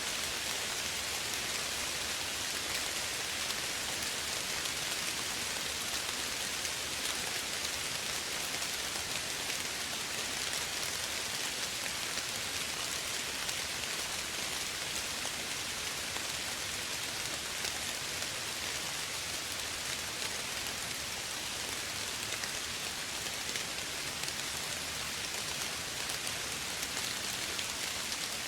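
Steady soft rain falling, an even hiss of many drops with no thunder or other sounds standing out.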